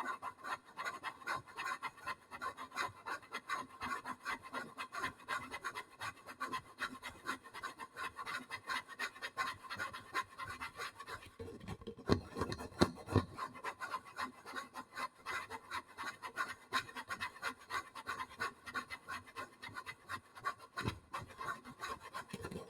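Close-up ASMR scratching: quick, evenly repeated scratching strokes on a surface, with a few louder knocks about halfway through.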